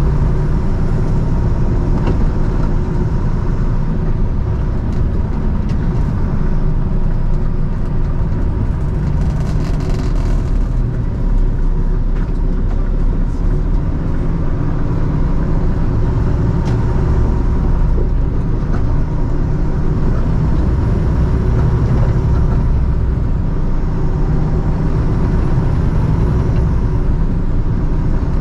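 Semi-truck hauling a loaded fuel tanker, heard from inside the cab: a steady, loud low rumble of engine and road noise while cruising, with a brief hiss about ten seconds in.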